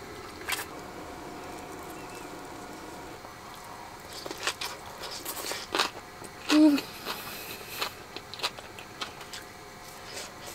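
Quiet eating sounds: chewing and small mouth clicks and smacks as food is eaten by hand, with one short hummed "mm" about six and a half seconds in.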